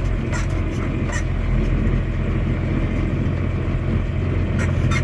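Farm tractor engine running steadily, with a few light clicks.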